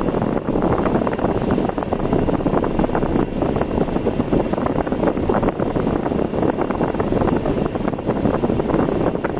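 Car driving on an ordinary road: steady road and engine noise with a rushing hiss.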